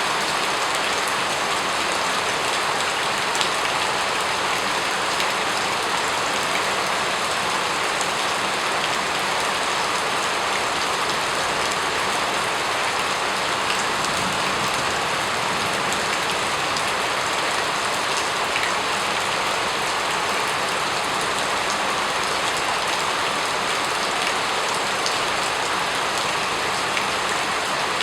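Steady rain falling in an even, unbroken hiss with faint scattered drop ticks.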